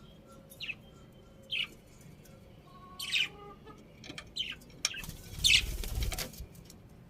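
Budgerigars chirping in short, high calls a second or so apart, with a louder burst of wing flapping about five seconds in, lasting just over a second.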